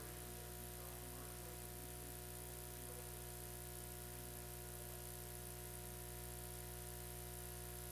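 Steady electrical hum and buzz from the audio feed, with a layer of hiss. Faint indistinct wavering sounds come through in the first few seconds.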